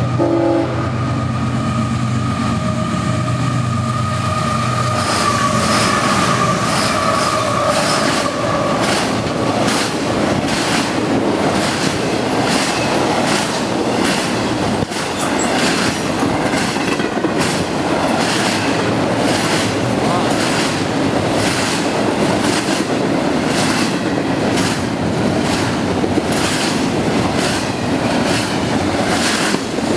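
Freight train rolling past at speed, its wheels clicking over rail joints in a steady, evenly spaced rhythm. A steady diesel engine drone fades away over the first several seconds.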